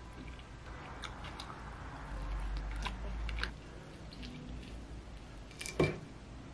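Chewing a mouthful of sauced grilled mackerel, with scattered light clicks of wooden chopsticks on a ceramic plate as the fish is pulled apart. There is one sharper knock a little before the end.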